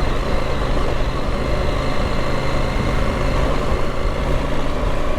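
Motorcycle engine running steadily under throttle, at an even pitch, while riding off-road through sand.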